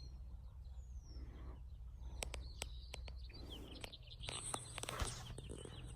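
Faint outdoor ambience with a low steady rumble, scattered short falling bird chirps, and a few sharp clicks a couple of seconds in.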